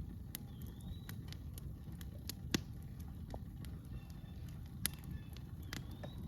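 Campfire crackling, with scattered sharp pops over a low steady rumble. The loudest pop comes about two and a half seconds in, another near five seconds.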